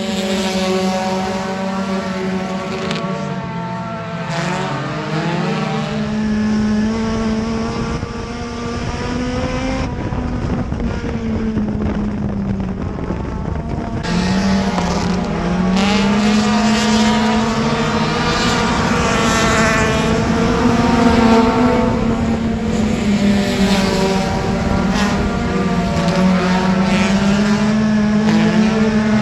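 Front-wheel-drive dirt-track race car engine running hard at racing speed, its pitch repeatedly dropping off and climbing back up as the throttle is lifted and reapplied.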